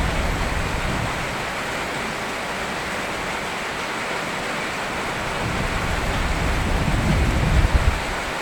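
Steady heavy rain hissing, with a low rumble of thunder that swells up about six seconds in and fades near the end.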